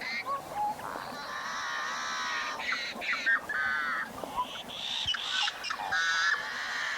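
A flock of birds calling, many calls overlapping, with the densest calling a few seconds in.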